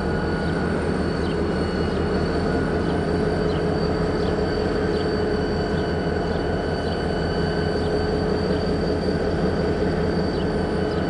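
A train running steadily past, a continuous rumble with a few steady tones in it and faint regular clicks about every three-quarters of a second.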